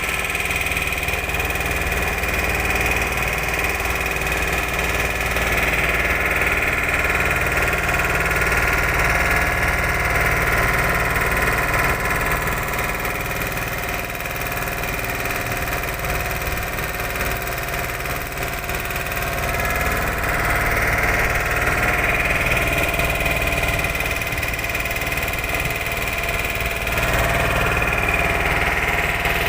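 Motorboat engine running steadily, an even continuous drone with slight swells and no changes in speed.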